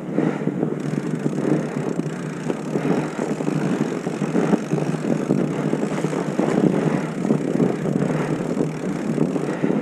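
Steady rush of air buffeting the microphone while moving downhill at speed, with a rough scraping texture throughout.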